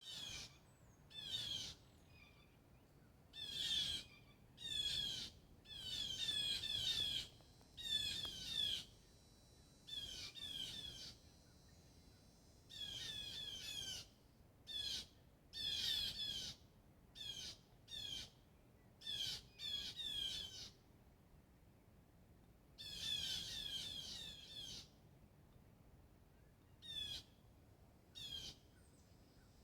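Birds calling in repeated bursts of rapid, sliding high notes, each burst lasting half a second to about two seconds, with pauses between them.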